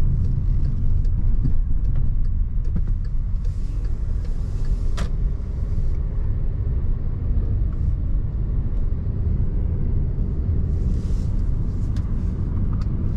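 Car driving slowly, heard from inside the cabin: a steady low rumble of engine and road noise, with a single sharp click about five seconds in.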